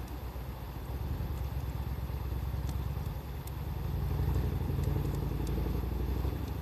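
Low, steady engine rumble from a passing motor vehicle, growing louder about four seconds in, over a wood fire giving off scattered sharp crackles and pops.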